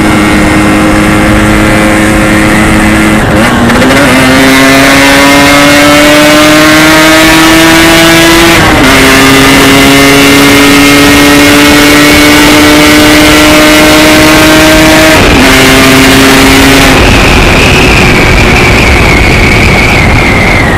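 Yamaha RX-King two-stroke single-cylinder motorcycle engine pulling under way. Its note climbs steadily and drops three times at gear changes, and near the end it gives way to a rush of wind noise.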